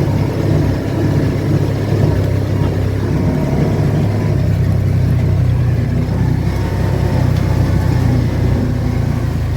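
Car driving at a steady pace: engine running with a steady low hum, mixed with road noise.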